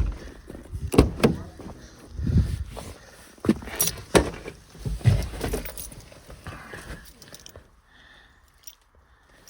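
Keys jingling amid irregular knocks and clatter. The handling noise is loudest in the first six seconds and then dies down.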